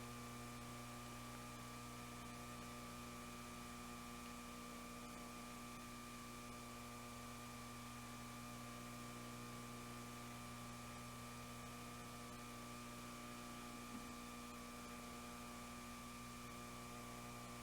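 Steady electrical mains hum with a faint hiss underneath and a thin, slightly wavering higher tone.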